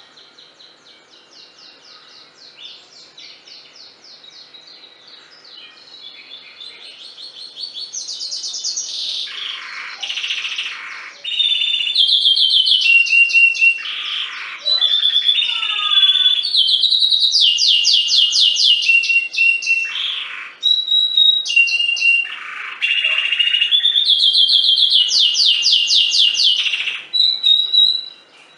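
Domestic canary singing a long song of rapid trills and held whistled notes. It starts soft, grows loud after about ten seconds, and stops near the end.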